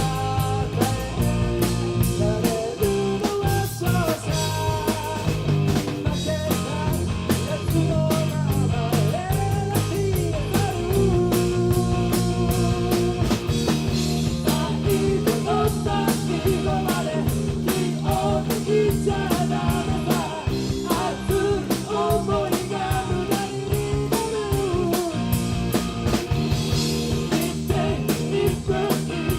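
Rock band playing live: a drum kit keeps a steady beat over bass and electric guitar, with a melodic lead line that bends in pitch.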